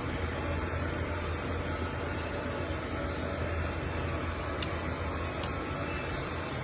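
Steady low hum under an even hiss, like a motor or engine running, with two faint clicks in the second half.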